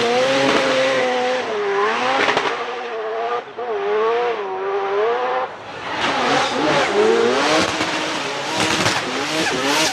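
Drift car at full throttle, its engine revs rising and falling again and again, with tyres squealing as it slides.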